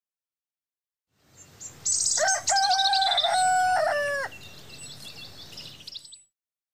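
Birds calling: a long crow-like call in four steps, ending in a falling tail, sounds over higher chirps that fall in pitch. Fainter chirping carries on after it and stops suddenly about six seconds in.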